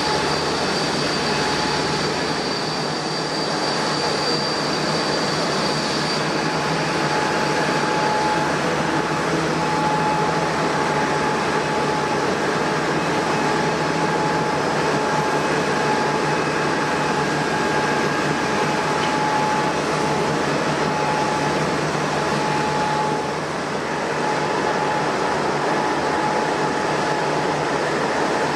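Jet airliner engines running, a steady rush of noise with a high whine over it. Brief dip in level a little after two-thirds of the way through.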